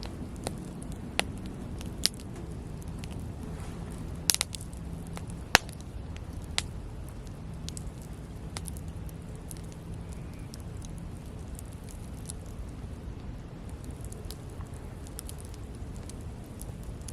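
Wood campfire burning: a steady low rush under sharp crackles and pops. The pops come mostly in the first seven seconds, with the loudest about five and a half seconds in, and are sparser after that.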